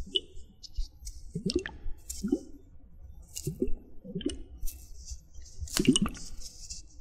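Close-up water sounds: a series of short, bubbly plops, each rising quickly in pitch, about six in all, with squishy splashing and dripping between them.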